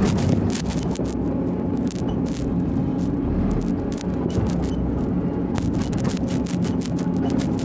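Engine of a heavy machine running steadily, with frequent sharp clicks and clanks over it.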